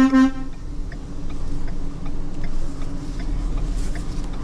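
A vehicle horn gives one short toot at the very start, then a vehicle engine runs steadily with a faint regular ticking.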